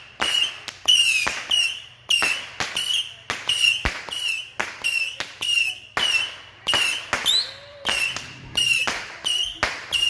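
A fireworks battery firing shot after shot, about two to three a second: each a sharp crack trailed by a short, slightly falling whistle.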